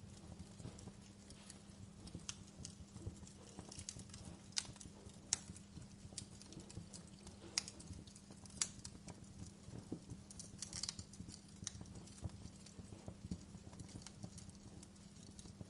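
Wood fire crackling: irregular sharp snaps and pops, a few of them louder about five and eight and a half seconds in, over a steady low hum.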